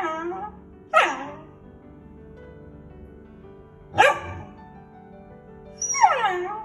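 Beagle barking and baying: the end of a drawn-out, wavering bay, then two sharp barks about three seconds apart, and a longer falling bay near the end, over faint background music.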